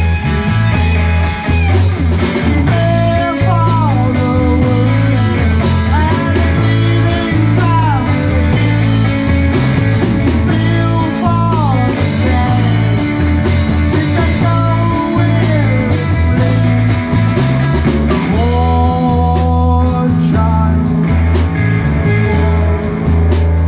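Live rock band playing an instrumental passage: lead electric guitar with bending, sliding notes over a heavy steady bass line and drums.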